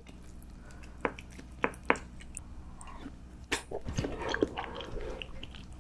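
Close-miked eating: chewing with wet, squishy mouth sounds and a few short, sharp clicks scattered through.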